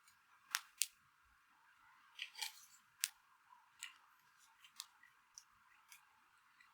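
Wood fire crackling: sharp, irregular pops and snaps over a faint hiss.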